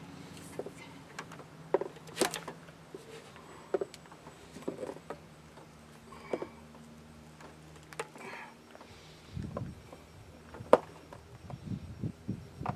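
Irregular clicks, knocks and light clatter of tools and parts being handled during engine work, with a faint steady hum that fades out about halfway through.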